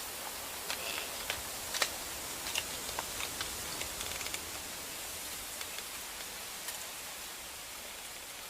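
Steady hiss of a snowstorm's falling precipitation, with scattered light ticks as it hits surfaces.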